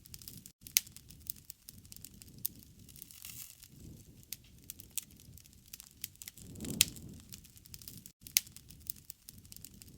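Wood campfire crackling, with scattered sharp pops, a few louder ones about a second in, near seven seconds and near eight and a half seconds, over a low, slowly swelling rush of the flames.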